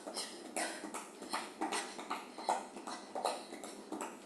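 A person doing lateral skips: shoe landings on the floor and hard breathing, in short strokes about two to three times a second.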